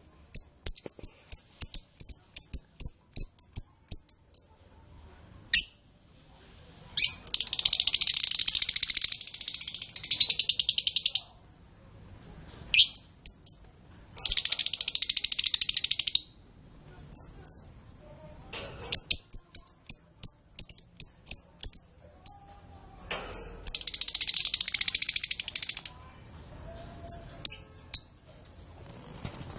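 Canary singing: runs of quick, high repeated chirps alternating with long rolling trills of two to four seconds each.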